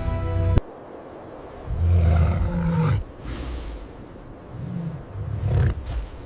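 Background music cuts off abruptly, then a large animal gives two deep, low growls, one about two seconds in and another near the end.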